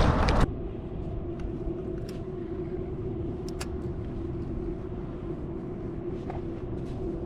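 A steady, distant engine drone with a few light clicks over it. A loud rush of noise cuts off abruptly about half a second in.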